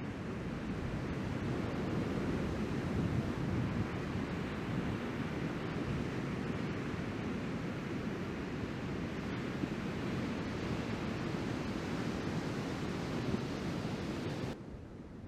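Wind buffeting the microphone over a steady rush of breaking surf. The level drops off abruptly shortly before the end.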